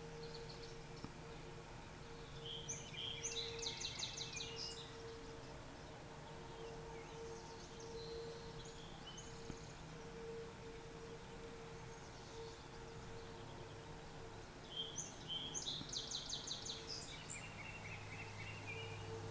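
A bird singing twice, each time a quick run of high repeated notes lasting about two seconds, with a few fainter calls in between, over a faint steady hum.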